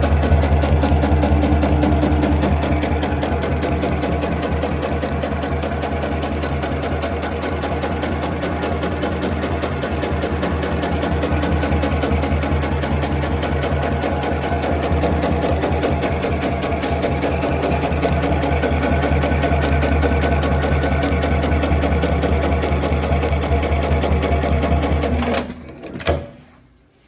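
Dematron XR-3020H heavy-duty CNC sewing machine stitching at a steady, rapid rate over the hum of its drive. It stops about a second and a half before the end, with one short knock just after.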